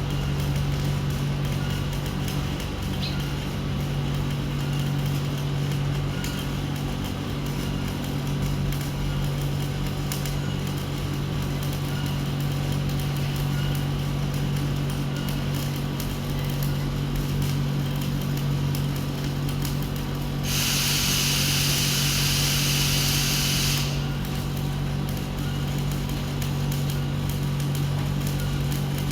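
Welding machine running with a steady low hum. A loud hiss comes in for about three seconds near two-thirds of the way through, then stops.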